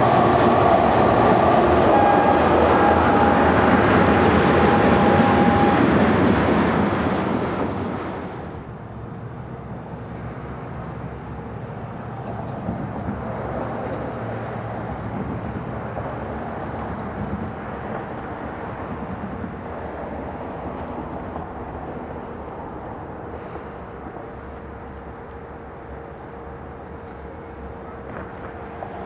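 Freight train passing close by: a multi-note train horn sounds over the loud rumble at first, its last note cutting off about six seconds in, and the noise falls away about eight seconds in to the lower, steady rumble of the train rolling on.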